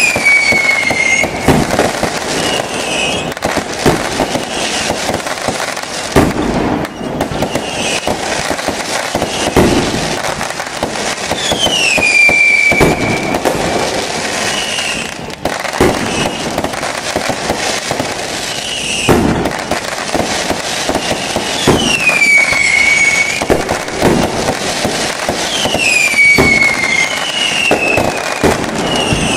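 Fireworks display: a dense, continuous barrage of bangs and crackling. High whistles that fall in pitch recur every few seconds.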